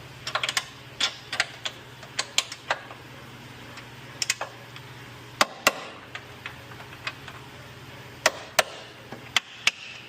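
Irregular sharp metallic taps and clicks, some louder than others, of tools and steel suspension parts knocking together as a new lower control arm is worked into place and its bolt lined up, over a steady low hum.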